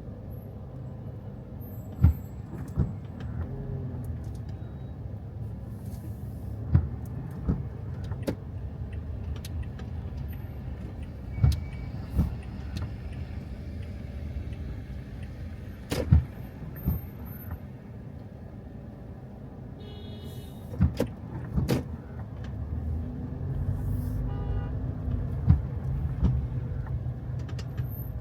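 Car road noise: a steady low rumble, broken by about a dozen sharp knocks at uneven intervals.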